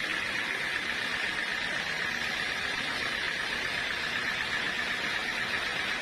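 Sawmill saw cutting through a teak log: a steady hiss that does not change or break.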